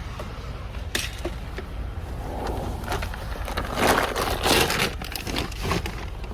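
Rustling and crackling with a few sharp knocks, loudest in a burst past the middle, over a steady low rumble: things being handled.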